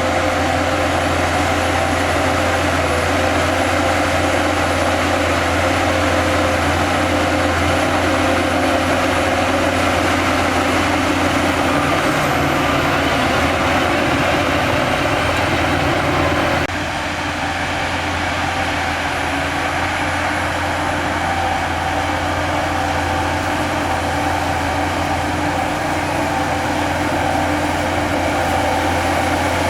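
Heavy diesel engines of earthmoving machinery running steadily with a deep, constant drone. The sound shifts abruptly and turns slightly quieter about seventeen seconds in.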